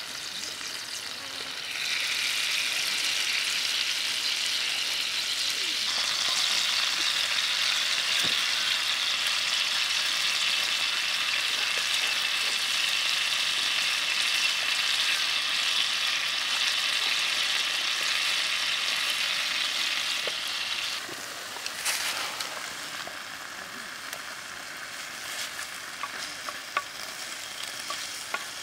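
A small octopus frying in hot oil and sauce in a small metal pan, a steady sizzle that grows louder about two seconds in and drops back about two-thirds of the way through. A few light clicks come near the end.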